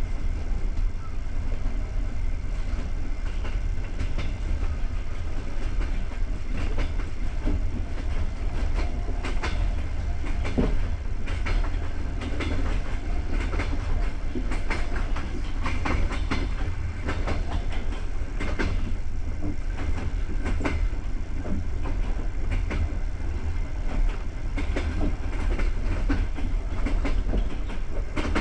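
Passenger train coach running along the track: a steady low rumble with frequent irregular knocks and clacks of the wheels over rail joints and track.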